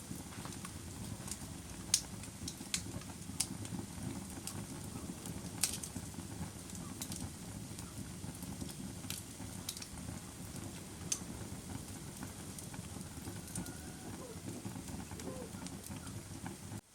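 Wood fire crackling: a steady low rumble of burning with sharp, irregular pops and snaps, the loudest about two seconds in.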